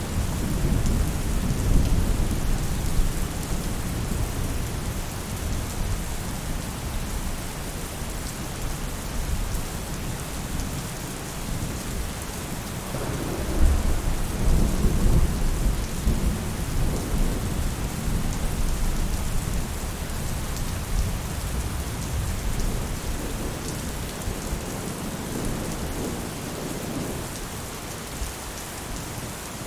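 Rain falling steadily on a roof, an even hiss, with low thunder rumbling at the start and again about halfway through.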